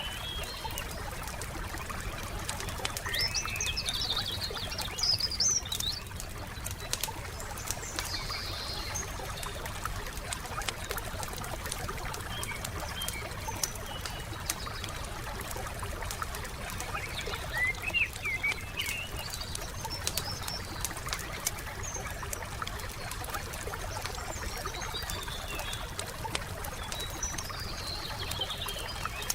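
Campfire crackling steadily with many small sharp pops, while forest birds sing short chirping phrases four times, the loudest a few seconds in and again about halfway through.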